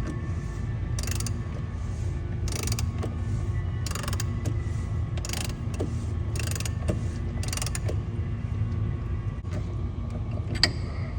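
Half-inch-drive ratchet clicking in short bursts, about one every second or so, as it swings back between strokes turning an 84 mm socket on a stiff diesel fuel filter housing cap, over a steady low hum.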